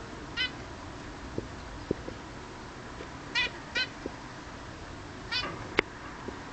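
Pet bird giving four short, high calls spaced a few seconds apart, with a sharp click near the end and faint soft knocks in between.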